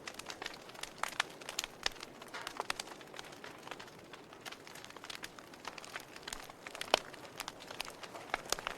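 Wood campfire crackling: irregular sharp pops and snaps over a faint steady hiss, with one louder pop about seven seconds in.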